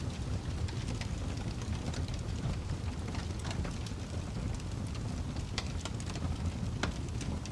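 Wood fire crackling: a steady low rumble of burning logs with irregular scattered pops, a couple of sharper ones near the end.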